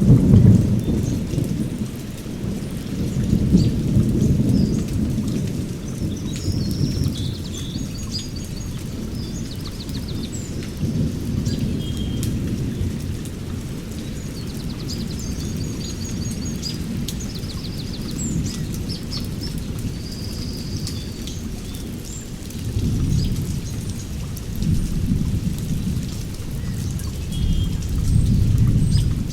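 Thunderstorm: thunder rolls in long low rumbles that swell and fade several times, over steady rain pattering. Short high chirps and trills of small birds come and go through it.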